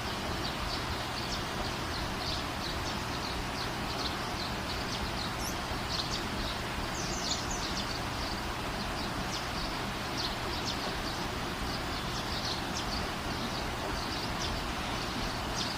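Birds chirping: many short, high chirps, several a second and irregular, over a steady background hiss.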